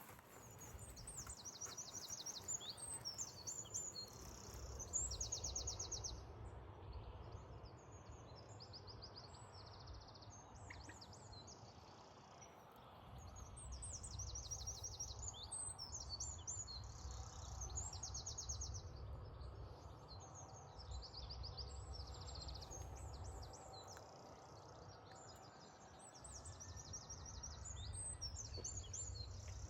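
Several songbirds singing, with rapid trilled phrases following one another throughout, over a low outdoor rumble that swells and fades.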